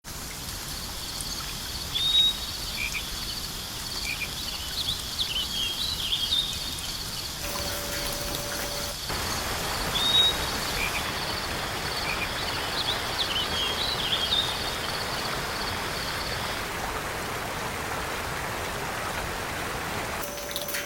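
Forest ambience: a steady high-pitched insect drone with scattered short bird chirps, joined from about nine seconds in by a steady rushing hiss. The insect drone stops about three-quarters of the way through, leaving the hiss.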